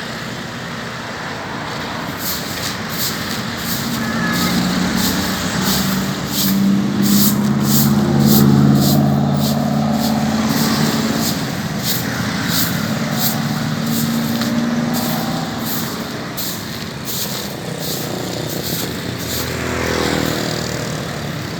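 A motor vehicle engine passing close by, swelling to its loudest about eight seconds in, over a steady run of scratchy broom strokes sweeping sand off the road, about two strokes a second.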